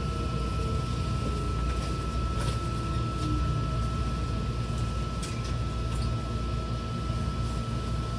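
Odakyu 70000-series GSE train running, heard from inside the car: a steady low rumble of the wheels on the track with a steady high whine held throughout.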